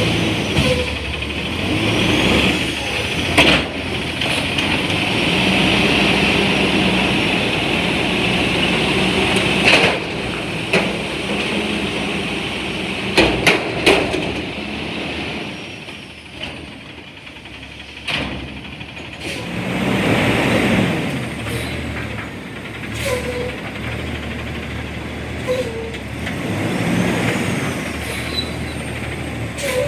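CNG front-loading garbage truck working a stop: engine running, building up about two-thirds of the way through, with air-brake hiss and several sharp metal clanks.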